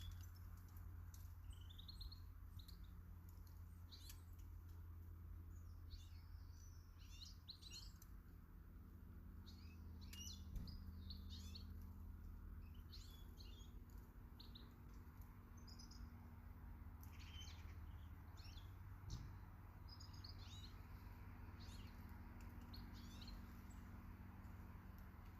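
Garden birds chirping and calling, faint: many short high chirps scattered throughout, over a low steady hum.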